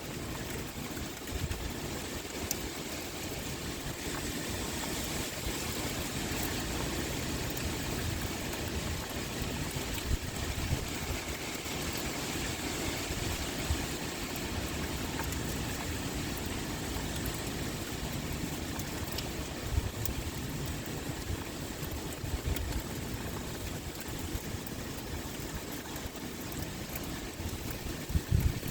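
Steady pouring rain with wind blowing, a continuous rushing noise with a low rumble under it. There are a few brief low bumps about twenty seconds in and near the end.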